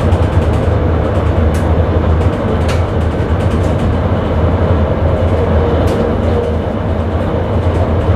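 Sprinter electric train running at speed, heard from inside the driver's cab: a steady low rumble with wheel-on-rail noise and three sharp clicks.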